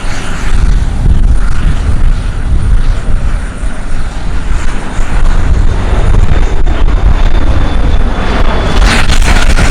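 Lockheed KC-130H Hercules's four Allison T56 turboprop engines running very loud and close, a deep rumble with propeller noise over it. About nine seconds in the sound turns harsher and brighter.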